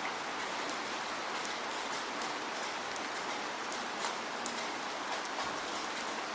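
Steady rain: a constant hiss of falling rain with scattered sharp drop ticks through it.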